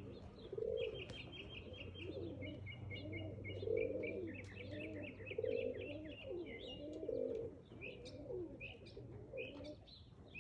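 Domestic pigeons cooing in repeated warbling phrases, with small birds chirping in quick high-pitched trills over them.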